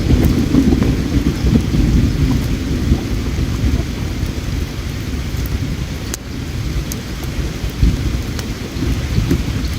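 Campfire crackling, with scattered sharp pops, over a steady low rushing of flowing river water.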